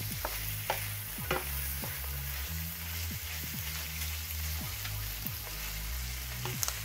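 Chicken strips and sliced red onion sizzling steadily in a nonstick frying pan over raised heat, stirred with a wooden spatula that knocks and scrapes against the pan a few times, twice in quick succession near the end.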